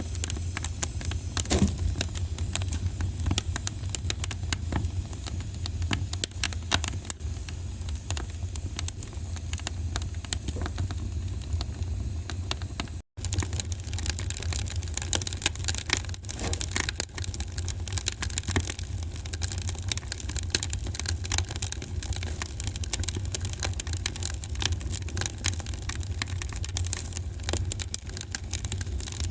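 Wood fire in a fireplace crackling, with frequent sharp pops and snaps over a steady low rumble. The sound cuts out for a split second about halfway through.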